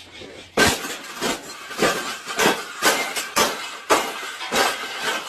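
Wire cage being banged and rattled: about nine clanging metallic hits, slightly under two a second.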